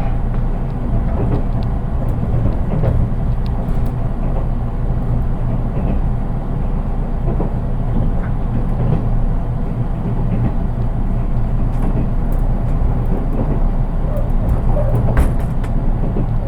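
Running noise of a JR East 183 Series electric train, heard inside its KuHa car, an unpowered driving trailer: a steady low rumble of wheels on rail with a few faint knocks, and no traction-motor sound.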